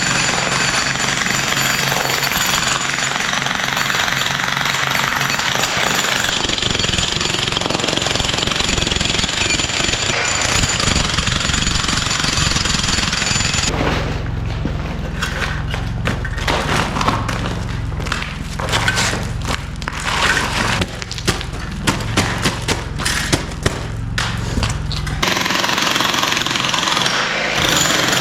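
Electric jackhammer breaking up a concrete block, hammering continuously. About halfway through the sound changes to a lower hum with irregular sharp knocks, and near the end it returns to the steady hammering.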